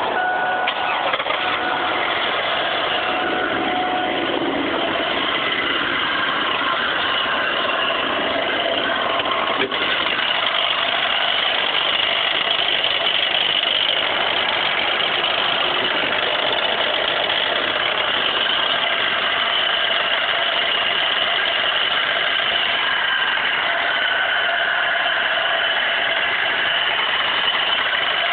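2002 Pontiac Grand Prix GTP's supercharged 3.8-litre V6 just started and idling steadily with a metallic tapping knock. The knock appeared after the engine was run about two quarts low on oil.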